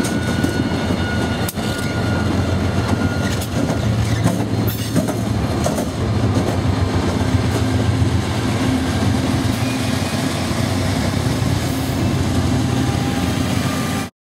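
A train rolling past: a steady rumble of cars on the rails over a low engine drone, with a few sharp knocks. It cuts off suddenly near the end.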